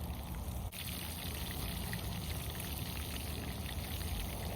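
Trout fillets frying in hot oil: a steady sizzle with fine crackling, which grows denser just under a second in.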